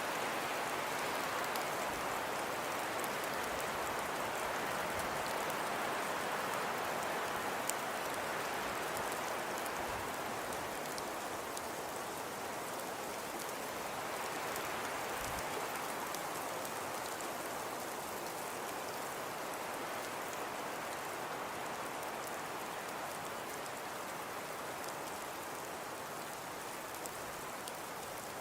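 Steady hiss of falling precipitation, soft snow or rain, with faint scattered ticks of drops or flakes landing; it eases slightly in loudness over the stretch.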